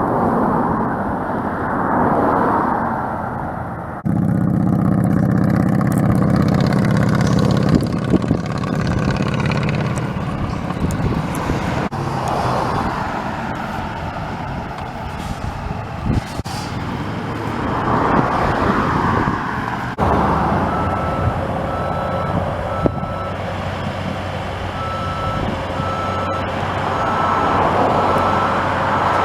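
Road and construction traffic: vehicles passing with swelling tyre and engine noise, and a heavy engine running low and steady for a few seconds. Past the two-thirds mark, a truck's backup alarm beeps about once a second.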